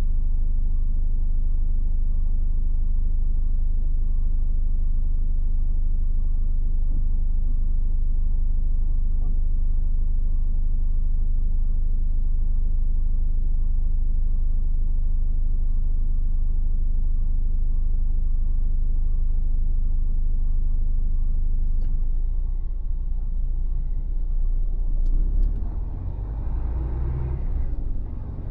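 A Mercedes-Benz Actros truck's diesel engine running under a steady low drone. About three-quarters of the way through, the drone breaks up into a more uneven rumble, with a couple of faint clicks.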